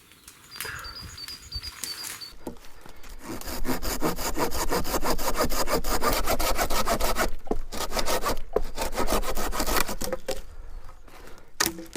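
Hand saw cutting through a rotten log with quick, even back-and-forth strokes, starting a few seconds in, pausing briefly about two thirds of the way through, then going on before stopping near the end.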